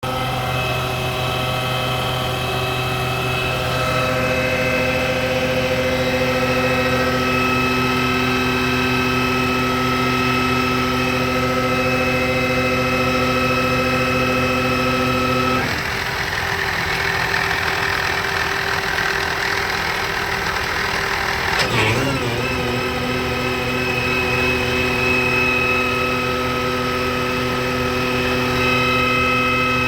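Tractor-type engine running steadily with its PTO disengaged, giving the noise the owner is showing from the disengaged PTO. About halfway through, the steady tone changes to a rougher, noisier sound for several seconds. A short clunk follows, and the steady running sound comes back.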